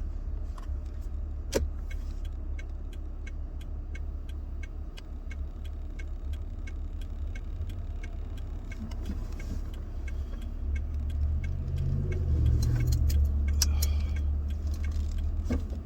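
Car interior: steady low engine and road rumble that grows louder for a few seconds near the end, with a regular ticking about three times a second through the first two-thirds.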